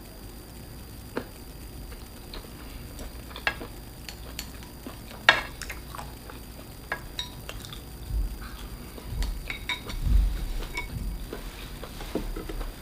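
Tableware clinking during a meal: scattered sharp clicks of utensils against dishes, the loudest about five seconds in, then a run of low thumps in the second half.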